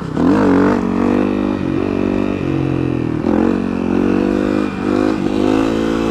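Yamaha WR450F supermoto's single-cylinder four-stroke engine, heard from on board, revving up and dropping back several times as the throttle is worked, with the front wheel lifted into a wheelie.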